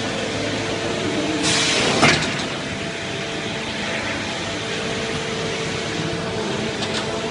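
CNC pipe bending machine running with a steady hum and held tones, and a short hiss ending in a sharp clunk about two seconds in.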